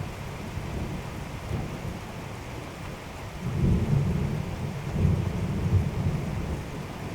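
Thunder rumbling over steady rain: a low roll swells about three and a half seconds in and rolls on in several peaks for about three seconds before dying back into the rain.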